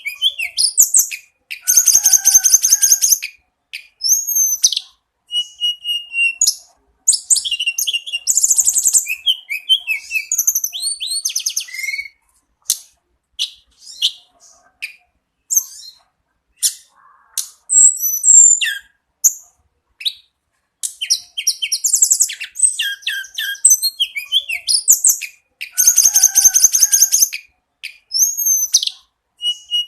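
Tledekan gunung songbird singing continuously: loud high-pitched phrases that mix rapid rattling trills, slurred whistles and sharp chips, with short pauses between phrases.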